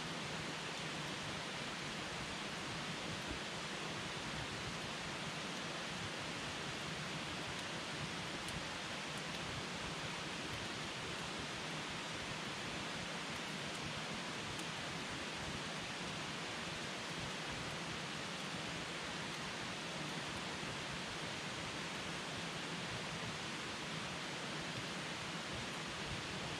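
Wood campfire burning: a steady hiss with a few faint crackles.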